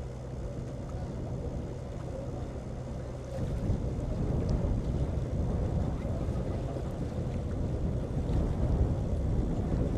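A boat's motor runs steadily, with wind on the microphone. About three and a half seconds in, the low rumble gets louder and rougher.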